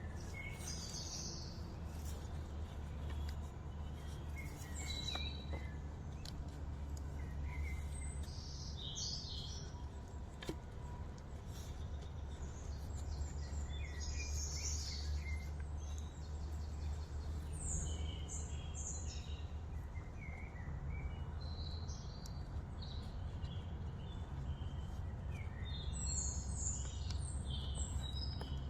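Wild birds chirping and calling in short phrases again and again over a steady low rumble.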